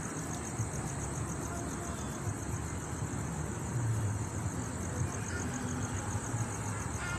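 Steady low rumble of distant road traffic, over a steady high pulsing trill.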